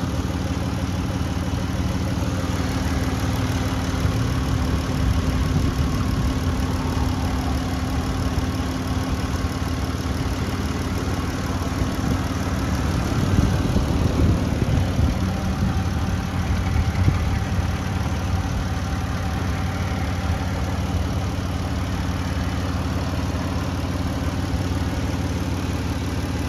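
2016 Chrysler Town & Country's 3.6-litre V6 idling steadily, a little rougher and louder for a few seconds around the middle.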